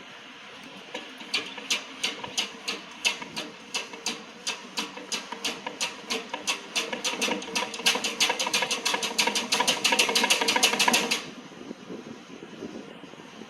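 Ratchet wrench clicking as a fastener is run, the clicks starting about a second in at a few a second, speeding up to a fast, dense rattle, then stopping abruptly.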